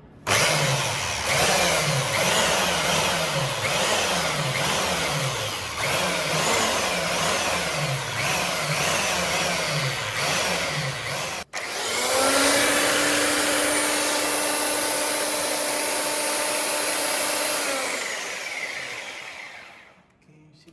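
Lazaro L-941 belt sander running at full speed on its power-on test after reassembly, with a low drone that rises and falls about once a second. After a brief break it runs again with a steady whine, then dies away near the end.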